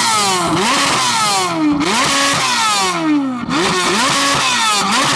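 Chevrolet Corvette C8 Z06's flat-plane-crank V8 through an aftermarket exhaust, revving high and falling back several times in quick succession.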